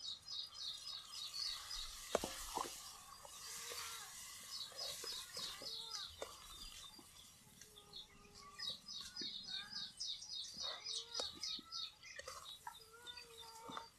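Birds calling: several quick runs of high, rapidly repeated chirps, with lower, arching calls in between. A few sharp knocks, the loudest about two seconds in, come from the ladle against the metal cooking pan.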